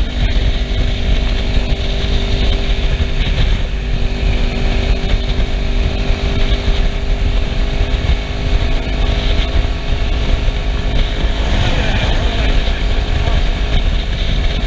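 Kawasaki Ninja 650R's parallel-twin engine running at steady cruising revs, under heavy wind rush on the microphone.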